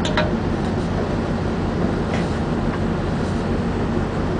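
Steady low drone of a vessel's engine running, with a couple of faint brief clicks, one at the start and one about two seconds in.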